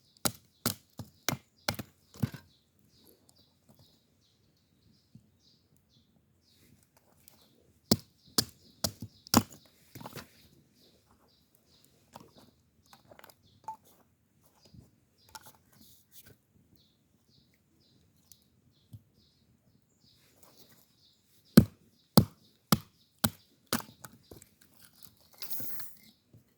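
Runs of sharp chopping strikes, about two or three a second, coming in three bursts separated by pauses. Birds chirp faintly in between.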